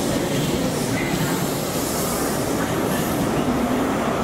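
Passenger train moving along the platform: a steady rumble and rattle of wheels on track, with a brief high wheel squeal about a second in.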